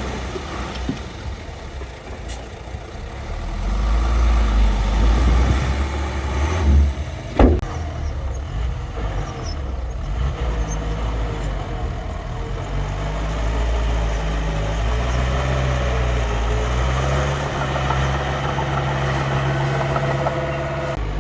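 Engine of a miniature construction machine running, building up louder about three and a half seconds in, with a sharp knock about seven and a half seconds in, then running steadily.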